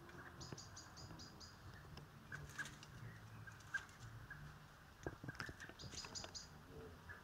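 Faint bird chirping: two quick runs of short high chirps, about six a second, one near the start and one near the end, with light crackling of twigs and leaves in between.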